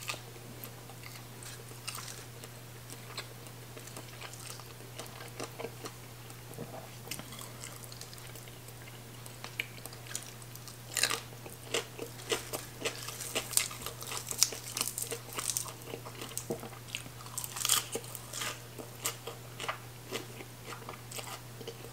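Close-up chewing and crunching of mouthfuls of papaya salad and fried fish. The crunches become louder and more frequent about halfway through. A steady low hum runs underneath.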